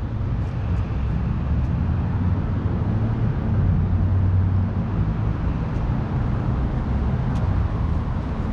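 Honda CRF300L's single-cylinder four-stroke engine running steadily, with a slight swell in level a few seconds in.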